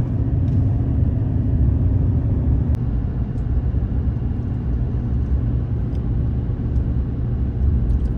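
Steady low rumble of a vehicle driving along the road: engine drone and tyre noise.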